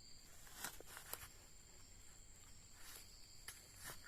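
Near silence with faint, steady high-pitched insect trilling, broken by a few soft clicks: two about a second in and one near the end.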